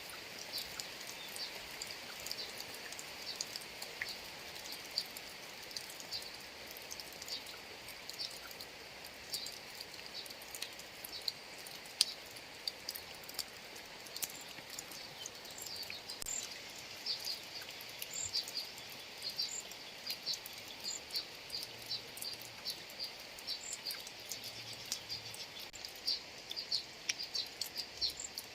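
Steady rain pattering over open rice fields, with scattered sharp drip ticks and many short, high chirps repeating throughout.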